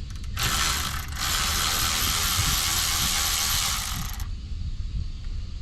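Ratchet wrench clicking rapidly as it backs out the small bolts holding the valve in an air dryer, in two runs with a brief pause just after the first second.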